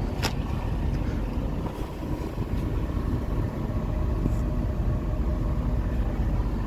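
Steady low rumble of a running truck engine, with one sharp click about a quarter second in.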